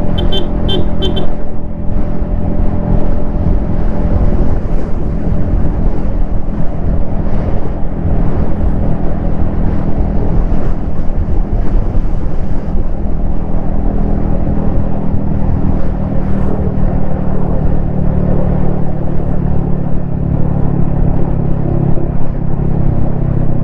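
Yamaha XSR155's 155 cc single-cylinder engine and exhaust running steadily while riding, with low rumble from the helmet-mounted camera. A few quick high beeps sound near the start.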